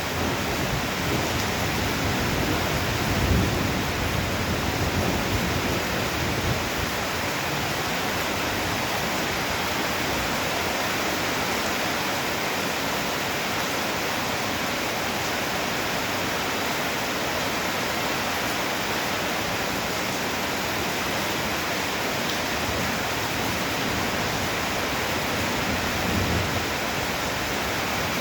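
Heavy rain pouring in a steady, dense hiss. Low thunder rumbles under it in the first few seconds and briefly again near the end.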